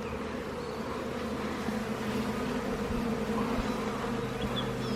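A mass of honey bees buzzing together in a steady, even hum, with a few faint low thumps in the second half.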